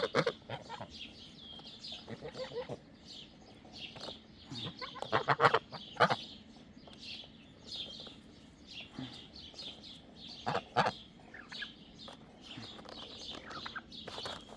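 Farm poultry calling around a person: a steady scatter of short, high chirps and peeps, with a few louder calls breaking in now and then.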